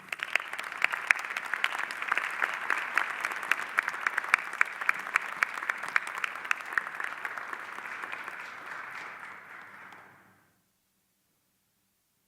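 Audience applauding, a dense crowd of hand claps that starts at once and fades out after about ten seconds.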